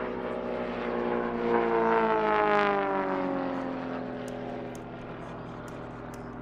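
Propeller engine of an Extra 300 aerobatic plane flying past. It swells to its loudest about two seconds in, then its pitch falls steadily as it moves away and fades.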